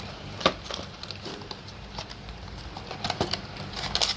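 Toy packaging being handled and opened: scattered clicks and rustling, with one sharp click about half a second in and a denser crinkling rustle near the end.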